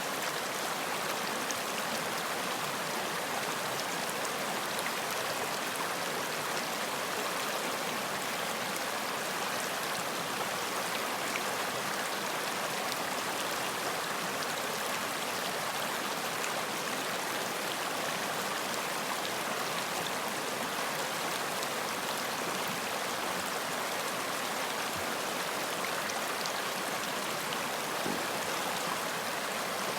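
Running water, a stream flowing steadily with an even rushing hiss and faint scattered splashes.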